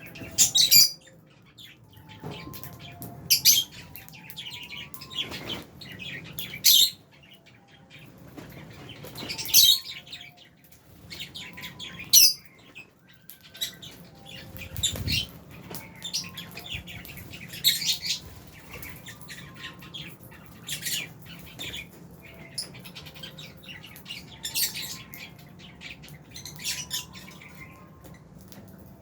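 A flock of Fisher's and albino lovebirds chirping: sharp, high chirps in short clusters every second or two. There is one soft low thump about halfway through.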